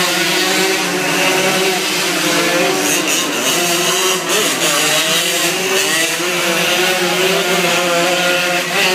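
Racing motorcycle engines running loudly and continuously, their pitch wavering up and down as the bikes are ridden round.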